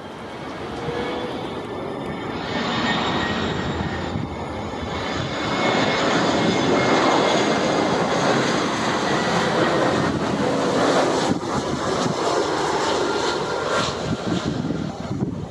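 Jet airliner's engines passing: a dense rushing noise that builds over several seconds, is loudest in the middle and eases off near the end, with a thin high whine from the engines on top.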